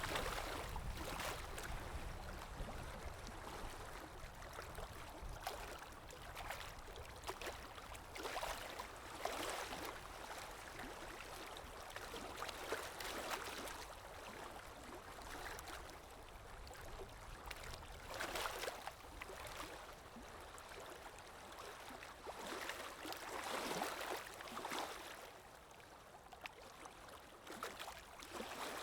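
Gentle river water lapping and rippling, with soft swells of splashing every few seconds.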